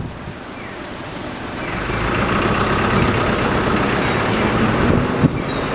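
A heavy vehicle's engine running, growing louder about two seconds in and then holding steady, with a thin steady high whine throughout and one short knock near the end.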